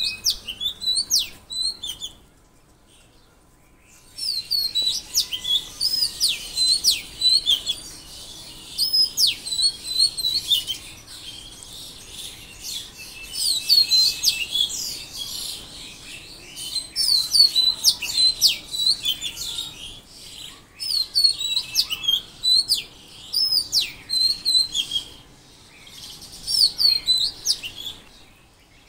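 Songbirds singing: bursts of quick, high, hooked chirps and short whistled phrases, overlapping and repeated, with a brief lull a couple of seconds in.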